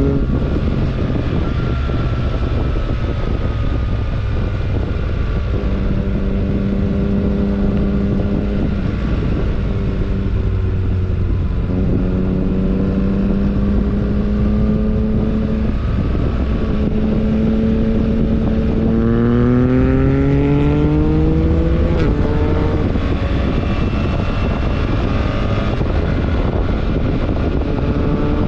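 BMW R1300GS Adventure's boxer twin engine under way, its pitch climbing through the revs and dropping at each of several gear changes, with one strong, quick climb about two-thirds of the way through. Steady wind rush runs under it.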